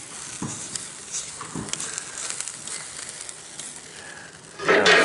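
Campfire crackling: scattered small pops over a steady hiss.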